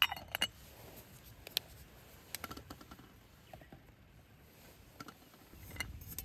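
Scattered light clicks and taps over a quiet background: a sharp one at the start, two quick ones just after, then a few more spaced out over several seconds.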